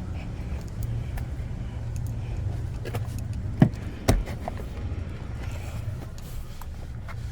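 Steady low hum of a car running, with two sharp clicks a little past halfway.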